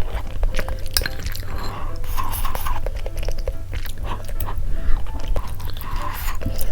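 Close-miked chewing and wet mouth sounds of someone eating, with many small clicks, over quiet background music.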